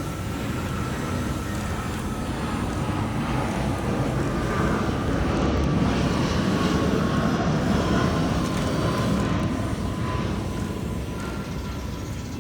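Electric motors and plastic gearboxes of RC construction toys whining, over a rumbling grind. The sound grows louder through the middle and then eases off.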